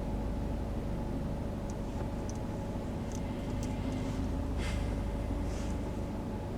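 Steady low rumble of a car being driven, heard from inside the cabin: engine and tyre noise with a faint steady hum, and a few light high ticks in the middle.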